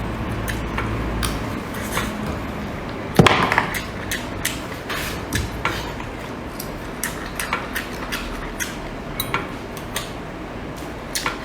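Eating and table-handling sounds: scattered clicks and knocks of utensils and dishes, with one loud knock about three seconds in.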